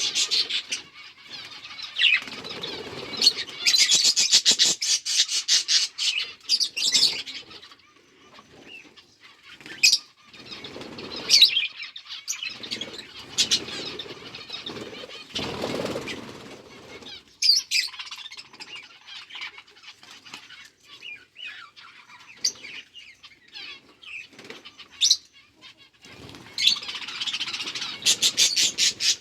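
Budgies chirping, with bursts of rapid wing flapping a few seconds in and again near the end.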